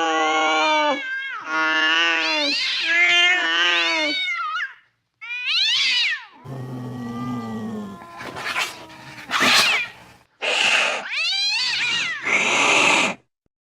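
Angry cat caterwauling: a long wavering yowl, then after a short pause a rising call and a low growl. It ends in a run of sharp hisses and spits mixed with short yowls, as cats do when threatening one another.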